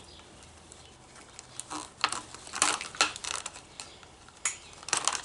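Nylon trimmer line being unwound by hand from a plastic bump-head spool: a scattering of light plastic clicks and rustles, a few at a time.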